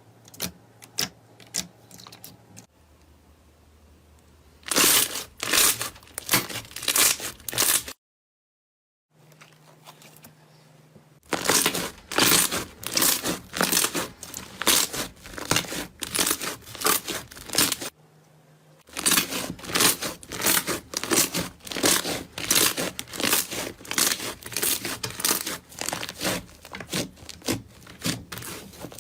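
Slime being squeezed and poked by hand, giving quick runs of crackling, popping clicks that start and stop between short clips, with a brief silent gap about eight seconds in.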